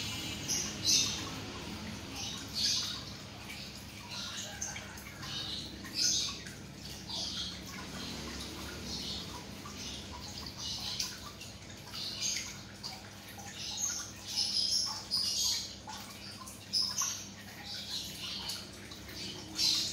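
Small birds chirping in short, high bursts, a chirp every second or so, over a faint steady low hum.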